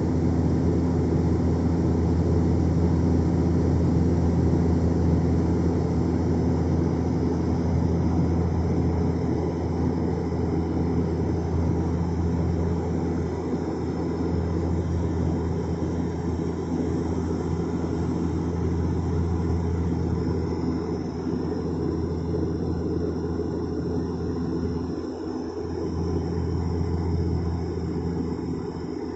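Steady drone of an aeroplane in flight heard from inside the passenger cabin: a constant low hum of the engines with airflow rush.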